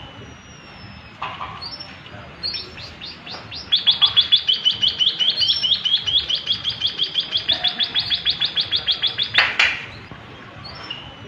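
White-headed munia (emprit kaji) singing: a few scattered high notes, then a long, fast trill of evenly repeated chirps, about eight a second, lasting some five seconds and ending on a sharp, louder note.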